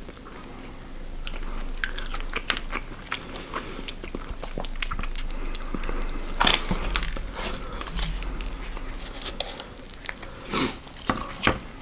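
Close-miked chewing and biting of a fast-food meal: wet mouth clicks and crunching bites, with a louder bite about six and a half seconds in and a few more near the end.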